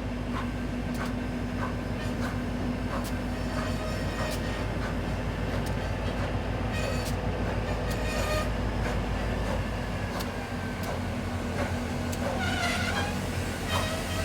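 A Grand Canyon Railway passenger train running by: a steady low engine drone under a regular beat of sharp strokes, about one to two a second, with a short wavering squeal near the end.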